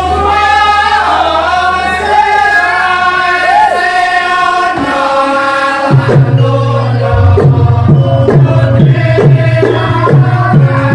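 Javanese gamelan music accompanying a lengger dance: a singer holds long, wavering notes, then from about six seconds in, drum strokes that bend down in pitch come about twice a second, typical of the kendang, over steady held gamelan tones.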